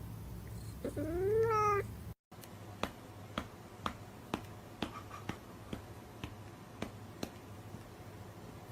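A cat meowing once, its pitch rising and then falling, from a cat-meme sound clip. After a sudden cut it gives way to a steady series of sharp clicks, about two a second.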